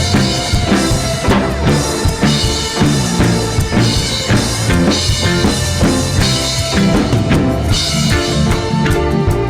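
Live band playing a song, with the drum kit to the fore: bass drum and snare keeping a steady beat under sustained pitched instruments.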